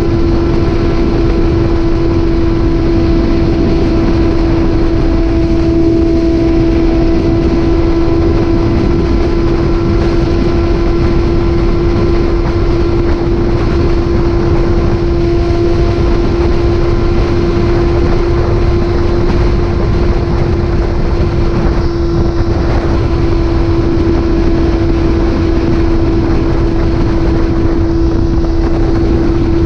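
Motorcycle engine running at a steady cruising speed, holding one even note, under heavy wind rush on the microphone.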